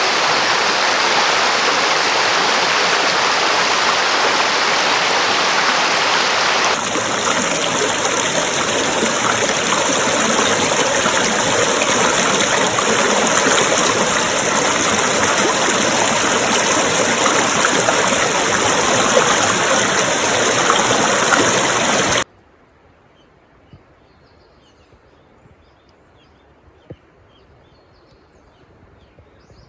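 Steady rush of flowing water, like a stream or small waterfall, changing character abruptly about seven seconds in and cutting off suddenly about 22 seconds in. After it comes quiet, with a few faint ticks.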